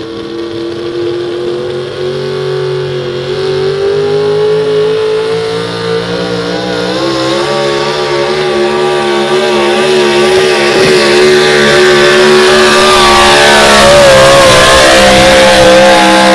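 Super stock 4x4 pulling truck's engine held at full throttle under load during a pull. The engine note climbs slowly and gets steadily louder, wavering in pitch through the middle of the run.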